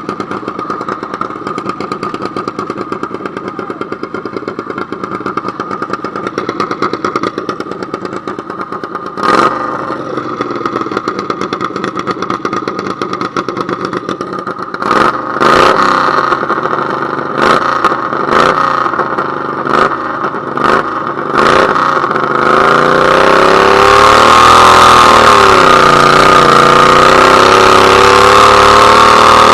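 Modified garden tractor pulling engine running at the line, given several short bursts of throttle. About 22 seconds in it goes to sustained full throttle, louder, its pitch wavering as it works under load on a hook.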